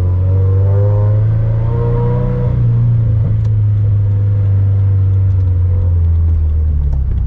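Turbocharged 2013 Scion FR-S flat-four engine with a catless front pipe and aftermarket catback exhaust, driving under load. A deep, steady exhaust drone, with a higher engine tone rising gently over the first couple of seconds before levelling off.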